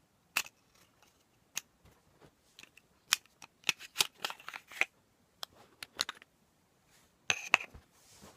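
Parts of a Tokyo Marui Colt Government Series '70 gas pistol clicking and clattering as it is handled during field-stripping: a string of sharp, separate clicks, clustered about three to five seconds in and again near the end.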